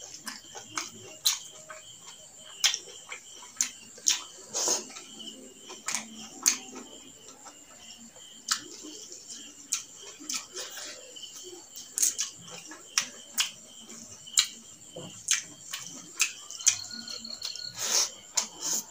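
Close-up mouth sounds of eating rice and chicken gizzard curry by hand: wet chewing, lip smacks and sharp clicks, coming irregularly, sometimes several in a second.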